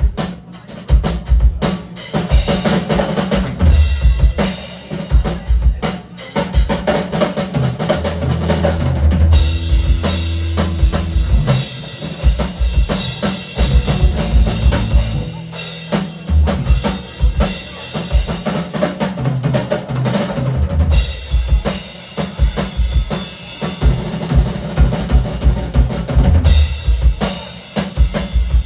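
A live band playing an instrumental funk tune, with the drum kit loud and driving a steady beat over low bass notes.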